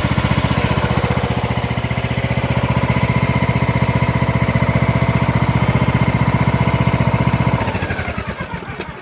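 Craftsman DLS3500 riding mower engine idling steadily, then shut off about three-quarters of the way through, its firing pulses slowing and fading to a stop near the end.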